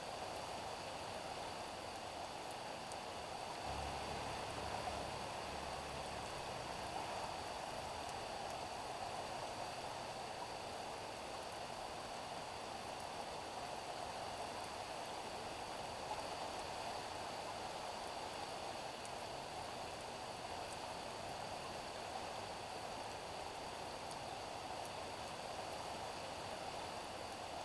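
Steady rain falling on a street, an even hiss. A brief low rumble joins it about four seconds in and fades about two seconds later.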